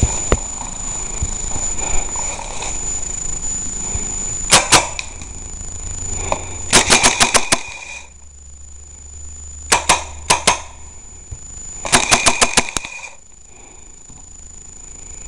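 Airsoft guns firing in four short bursts of rapid, sharp shots: two or three, then about six, then about four, then about six. A faint steady high whine runs under them.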